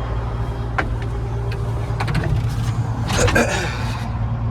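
Hitachi Zaxis 200 LC excavator's diesel engine idling steadily, heard from inside the cab, with a few clicks and knocks from handling the cab controls and a louder rattle a little after three seconds.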